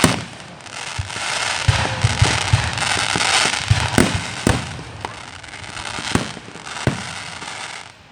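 Fireworks going off: a series of sharp bangs, several in quick succession about two seconds in, with crackling between the explosions.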